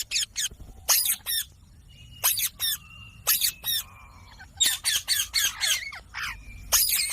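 Indian ringneck parrot squawking: clusters of short, harsh, high calls, several in quick succession, with brief pauses between the clusters.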